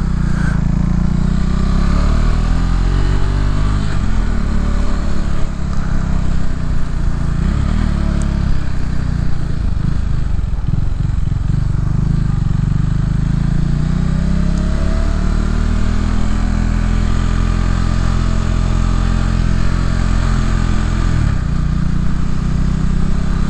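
Motorcycle engine running at low speed, its pitch falling and rising a few times as it slows and pulls away again.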